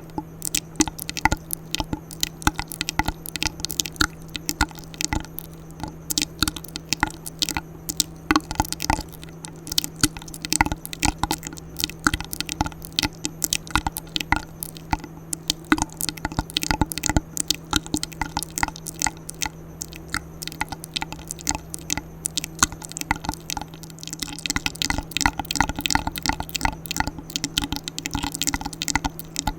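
ASMR mouth sounds close to the microphone: rapid wet clicks, smacks and pops, several a second, over a faint steady hum.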